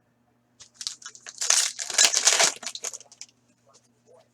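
Foil wrapper of a hockey card pack being torn open and crinkled, a run of rustling and crackling that stops about three seconds in.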